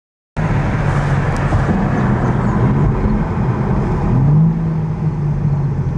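BMW M3's S58 twin-turbo inline-six pulling hard under heavy acceleration, heard from inside the cabin; it cuts in abruptly a third of a second in, and its pitch climbs about four seconds in.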